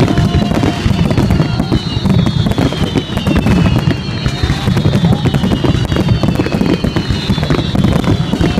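A fireworks display with shells bursting in dense, nonstop succession: a continuous low rumble of booms with crackling on top. High whistling tones fall in pitch again and again, every second or two.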